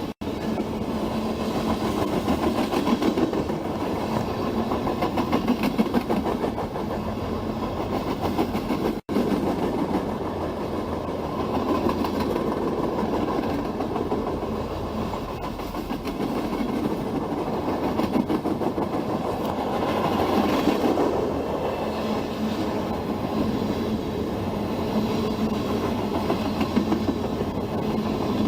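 Freight train rolling past, a steady rumble of railcar wheels clacking over the rails, with a momentary dropout about nine seconds in.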